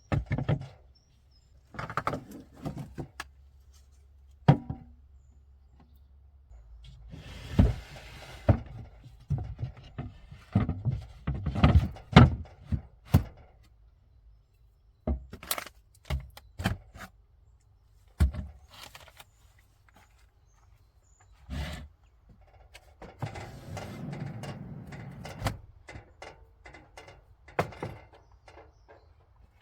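Irregular knocks, thunks and clatter of objects being handled and set down, with two short spells of rustling, one about seven seconds in and one about 23 seconds in.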